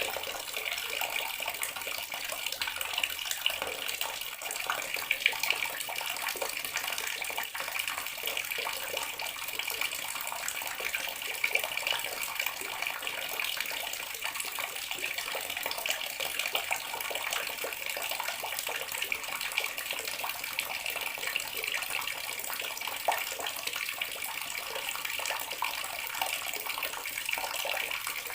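Water tap running steadily into a bathroom sink, an even splashing stream of water.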